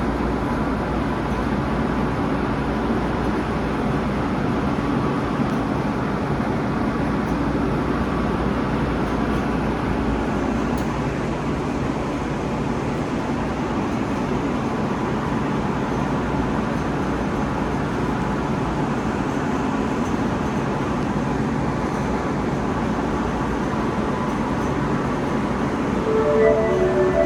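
Osaka Metro subway train at the station, a steady rumble and hum. Pitched electronic tones come in near the end.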